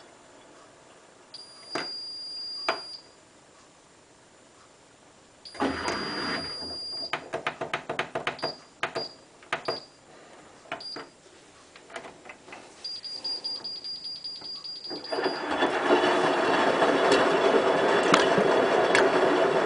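Hotpoint WT960 washing machine: high electronic beeps, a knock and a run of clicks, then a loud steady rushing noise starts about 15 seconds in.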